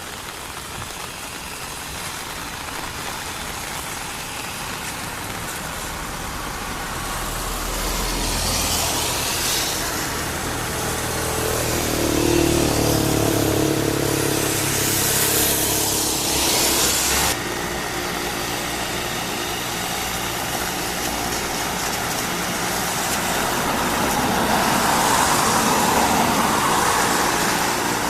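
Cessna 208 Caravan's single turboprop engine and propeller running close by, the hum and rushing hiss swelling to a loud peak and cutting off suddenly, then building again.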